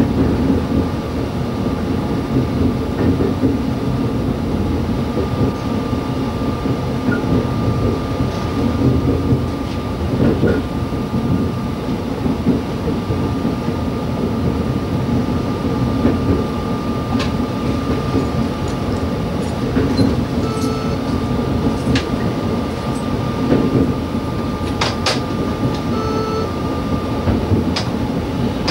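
Y2 diesel multiple unit heard from the driver's cab: a steady rumble of engine and wheels on the rails under a faint constant whine. In the second half come sharp clicks as the wheels cross points and joints, and two short beeps.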